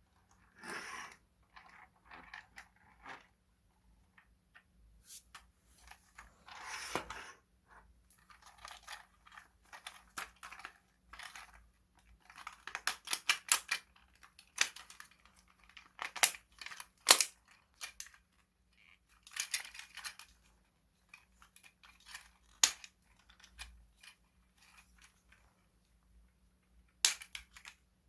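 Intermittent clicks, snaps and rattles of a plastic toy being handled, in irregular clusters with a few sharper clicks.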